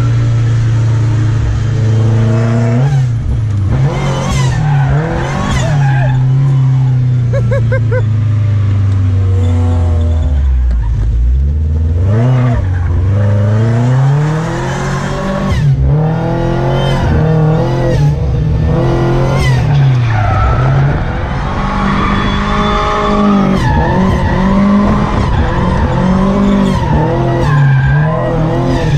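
Volvo red-block four-cylinder engine in a drift car, revved hard again and again, its pitch climbing and dropping every second or two, with tyres squealing as the car slides. It sounds awesome.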